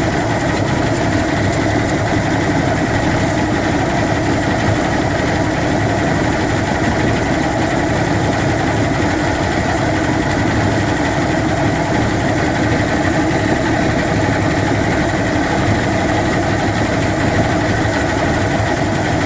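Johnson 150 hp outboard motor running at a steady speed, with an intermittent rattle about a second in. The rattle comes and goes and gets louder at higher rpm.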